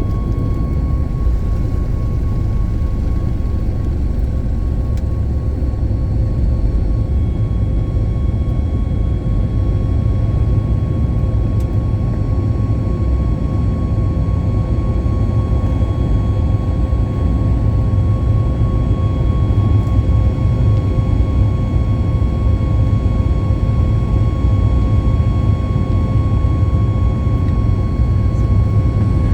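Cabin noise of a Boeing 737 MAX in flight: the steady low roar of its CFM LEAP-1B turbofan engines and airflow, with a steady engine whine on top, heard from inside the passenger cabin.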